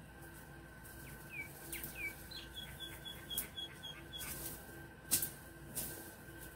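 A small bird chirping: two short falling chirps, then a quick run of about eight high, evenly spaced notes. Sharp snaps and cracks of twigs and dry litter come and go, the loudest about five seconds in.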